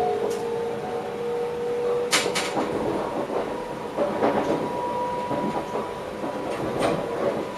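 Electric passenger train heard from inside the driver's cab: a steady motor whine that cuts off about two seconds in, over running noise with several sharp clacks of the wheels over the track.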